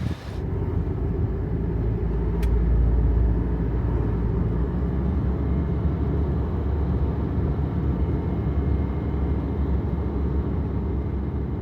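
Honda N-VAN kei van's engine running steadily as a low drone, with one light click about two and a half seconds in.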